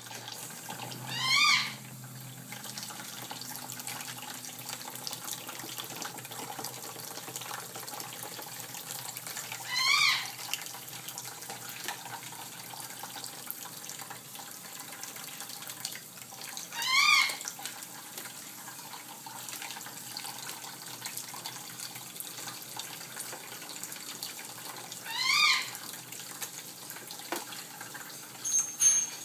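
A cockatoo gives four short calls, each rising and then falling in pitch, roughly eight seconds apart, over a steady hiss of running water.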